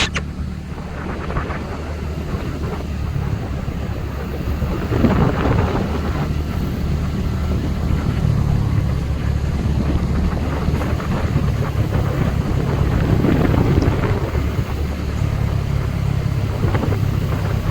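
Steady low engine rumble, with wind buffeting the microphone and a sharp click right at the start.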